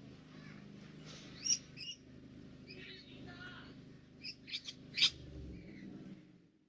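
Birds calling in short, sharp chirps over a steady low hum: a couple of calls about a second and a half in, then a quick run of four calls near five seconds, the last the loudest.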